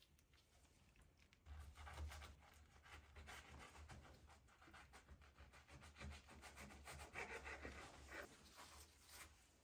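Faint rubbing and scratching with many small irregular clicks, starting about a second and a half in.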